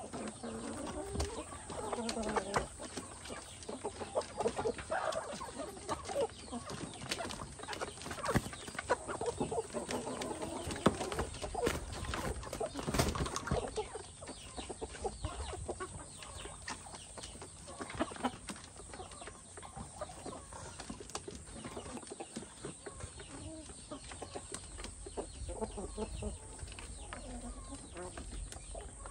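Domestic chickens clucking, amid many short clicks and rustles, busiest in the first half and thinning out later.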